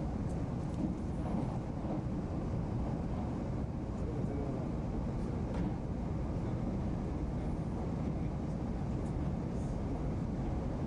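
Steady low rumble of a 300 Series Shinkansen train running, with a few faint high ticks.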